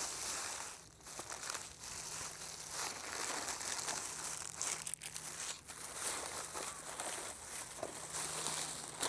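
Crinkling and rustling of something being handled, with a few small clicks mixed in.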